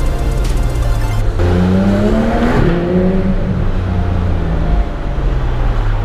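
Porsche 991 GT3's flat-six engine accelerating under background music: the revs climb for about a second, dip at a gear change, then rise again.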